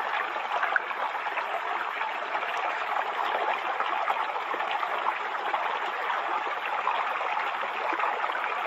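Waterfall: a steady rush of falling water splashing onto water and rock, with many small splashes in it.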